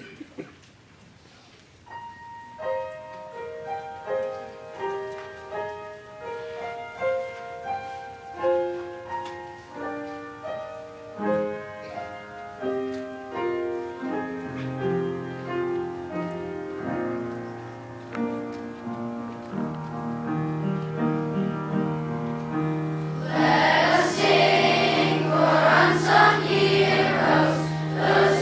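Slow piano introduction of single melody notes over a low bass line, then a children's choir comes in singing about four-fifths of the way through.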